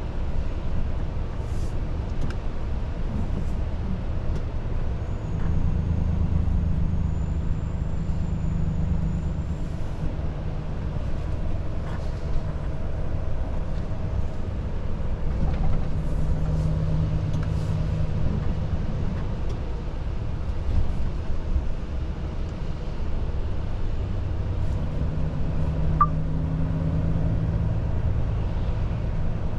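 Volvo FH truck's diesel engine running under way, with a continuous low drone and road noise. The engine note swells several times as the load or speed changes. A single click comes near the end.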